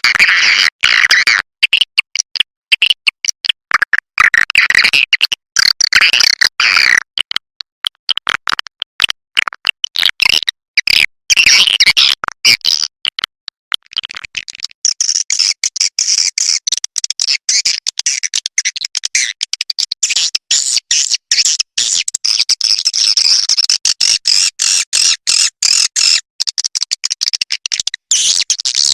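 Recorded edible-nest swiftlet calls used as a lure ('call sound') to draw swiftlets into a nesting house: rapid, dense chirping and chattering. About halfway through, the calls shift higher and run on more continuously.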